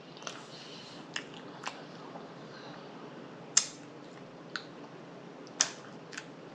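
Close-up mouth sounds of a person chewing a soft mouthful of peach cobbler: scattered wet lip smacks and mouth clicks, the loudest about three and a half seconds in and another near six seconds.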